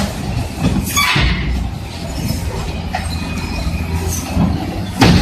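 Heavy bulldozers running hard, a steady low diesel rumble with steel tracks clanking and squealing. Sharp metallic knocks about a second in and a louder one near the end, as the machines strike each other.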